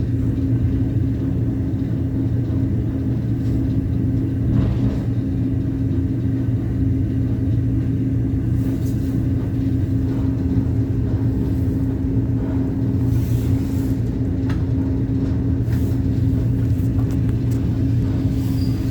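ET2M electric multiple unit running along the line: a steady rumble with a constant low hum, and a few faint clicks now and then.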